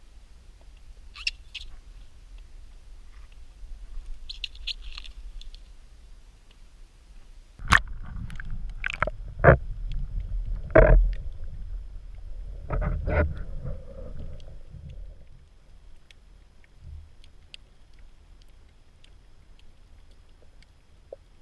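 A run of sharp knocks and bumps on a kayak, most of them between about 8 and 14 seconds in, over a low rumble. A few faint high chirps come before them.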